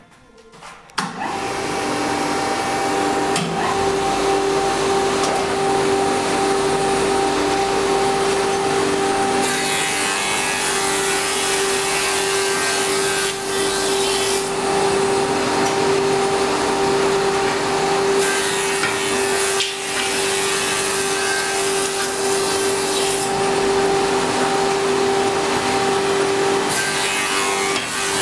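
Double-sided edge milling machine starting up about a second in and running with a steady whine from its motor and cutters. Three longer spells of louder cutting hiss come as wooden slats are fed through and chamfered on both edges.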